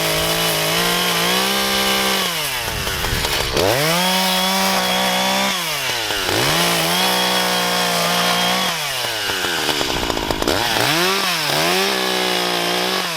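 Echo CS-590 two-stroke chainsaw engine revved to full throttle and back to idle again and again, about half a dozen times, each rev held for a second or two before dropping off.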